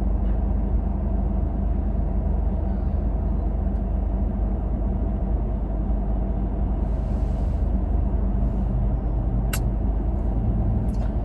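Steady low rumble of a car's engine and road noise heard from inside the cabin, with a single sharp click near the end.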